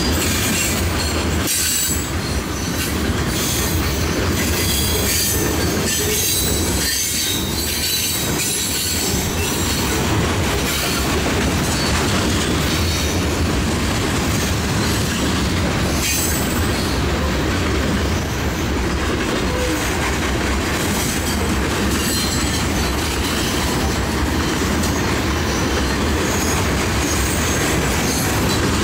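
Freight train of covered grain hopper cars rolling steadily past on a rail bridge: a continuous rumble of steel wheels on rail, with high wheel squeal and a few clacks over rail joints.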